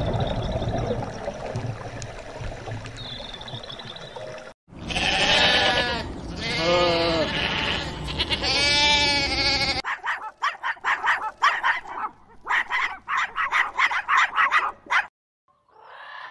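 Young lambs bleating: three long, wavering calls, then a fast run of short sharp sounds. Before the bleats there is a steady low rush for about four seconds, and right at the end a rainbow lorikeet's screech begins.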